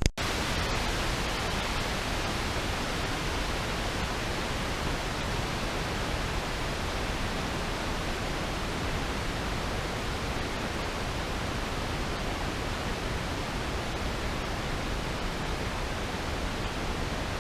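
Steady, even hiss of water noise picked up by a GoPro held underwater.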